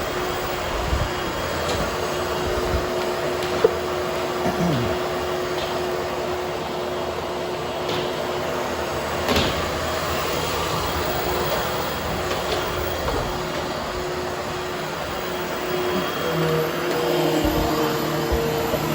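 Hoover HushTone upright vacuum running steadily as it is pushed over carpet, a continuous motor hum with a few light knocks. About sixteen seconds in, its tone shifts to a lower hum.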